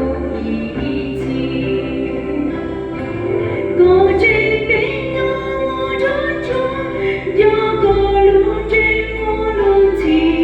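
A church group singing a hymn together, women's voices to the fore, over long held low bass notes from an accompanying instrument.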